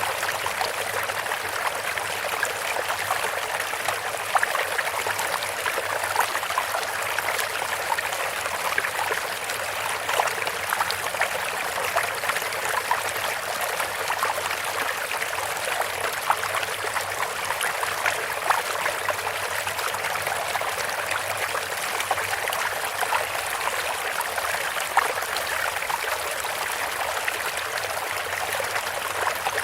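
Bamboo water fountain trickling and splashing steadily, with a few slightly louder splashes here and there.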